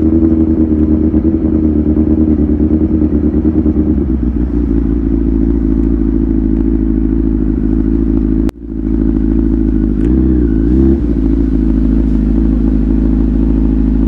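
Kawasaki ZX-10R inline-four engine with a Tyrants titanium muffler, running at a steady engine speed. The sound drops out for an instant about eight and a half seconds in, the pitch dips and recovers briefly around ten seconds, and it cuts off sharply at the very end.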